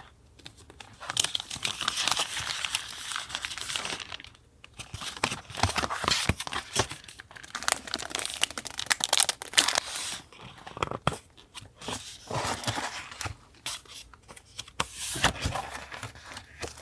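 Paper handled by hand for a journal collage: rustling and crinkling with stretches of tearing, broken by short pauses and a few light taps.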